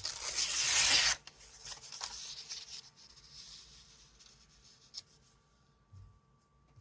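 Paper torn by hand in one rip lasting about a second, followed by softer handling of the paper and a few faint taps.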